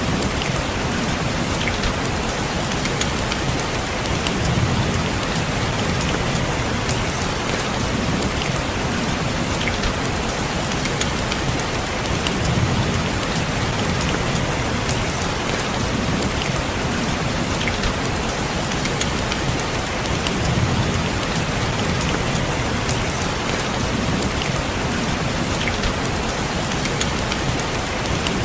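Steady rain falling on a window, with individual drops ticking sharply, under a low rumble that swells and fades about every eight seconds.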